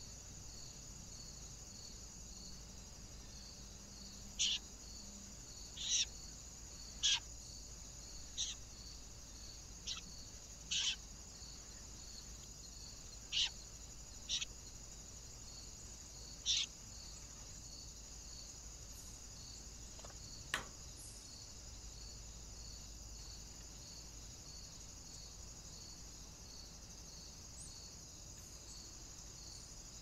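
About ten short, sharp bird calls, scattered between roughly four and twenty seconds in, over a steady high chirring of crickets.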